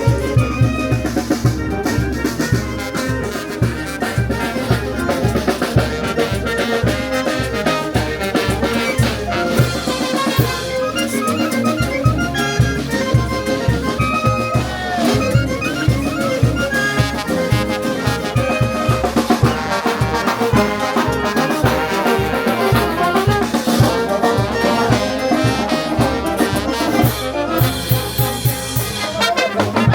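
Brass band music with drums, a steady driving beat under the brass melody.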